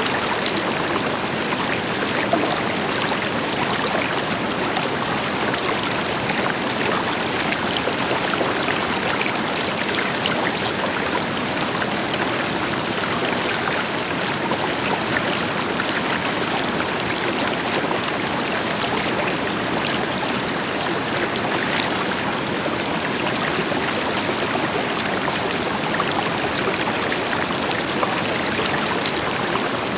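River water flowing steadily over rocks, a constant rushing wash with small splashes, with a distant waterfall beneath it.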